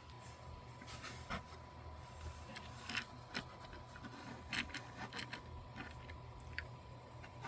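Faint, irregular clicks and crinkles of small objects being handled, such as plastic packaging and a die-cast toy car, over a faint steady high tone.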